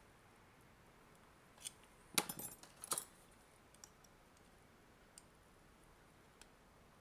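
Small, sharp metal clicks and clinks from handling tiny parts with a hand tool: a quick cluster of clinks about two to three seconds in, then a few faint ticks.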